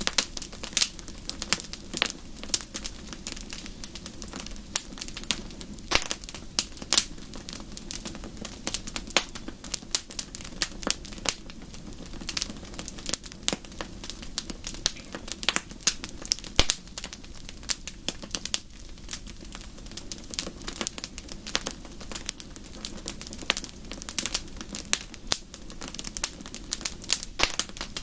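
Wood fire in a fireplace crackling: a constant, irregular run of sharp pops and snaps, some much louder than others, over a steady low rush.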